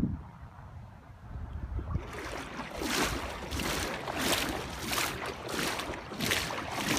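Legs wading through thigh-deep floodwater, with rhythmic sloshing splashes about three every two seconds starting about two seconds in.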